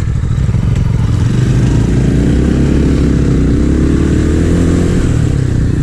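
A 250 cc motorcycle engine running under load while riding, its pitch rising and then settling about halfway through.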